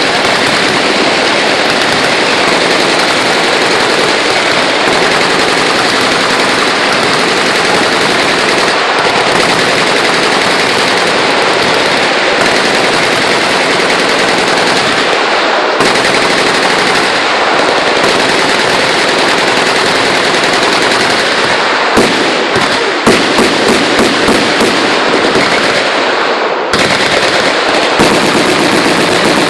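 Many machine guns firing at once in a continuous, overlapping roar of automatic fire. About three-quarters of the way through, the din thins and separate bursts and single shots stand out for a few seconds before the steady fire closes in again.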